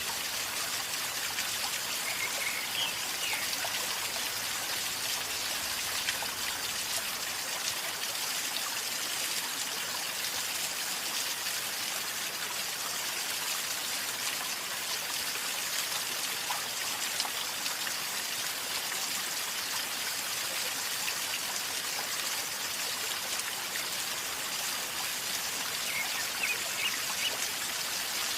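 River water flowing steadily, gurgling and trickling, with a couple of brief faint high chirps, one a few seconds in and one near the end.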